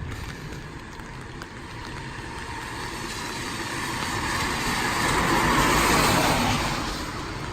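A car passing on a wet street, its tyres hissing on the water, growing louder to a peak about six seconds in and then fading, over steady rain.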